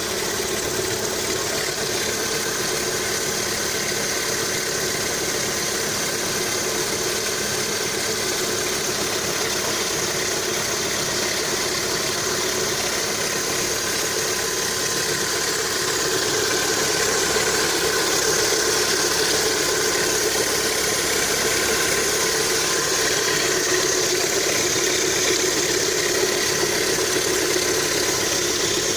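Lada Kalina 2's VAZ-21126 engine idling steadily while warming up, a little louder from about halfway through.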